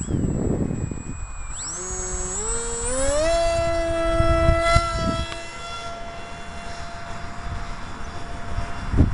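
RC flying wing's motor and propeller spinning up, the pitch climbing in a few steps over about two seconds into a steady high whine that holds at full throttle. Wind buffets the microphone with a low rumble underneath.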